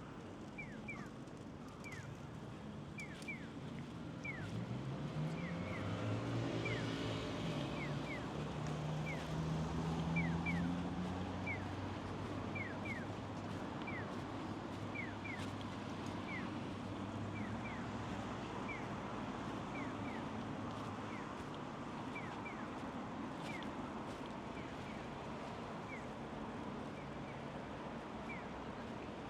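A vehicle engine passes by, its pitch rising from about four seconds in, loudest around ten seconds, then holding steady before fading into a constant background rush. Short high chirps repeat irregularly all through.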